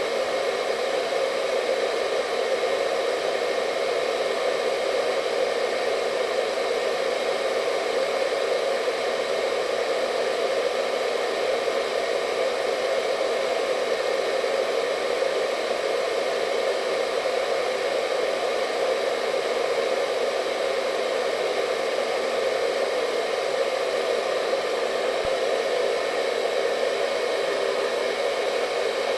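Hair dryer running at a constant setting: a steady rushing blow of air with a faint whine of the fan motor above it, unchanging throughout.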